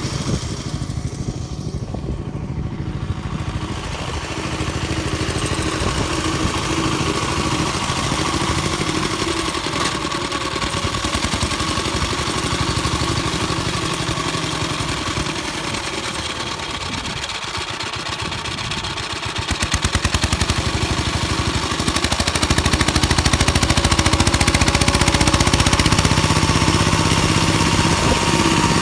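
Engine of a homemade mini-tractor converted from a walk-behind tractor, running steadily while it drives a rotary tiller through the soil. It gets louder about twenty seconds in, and again a couple of seconds later.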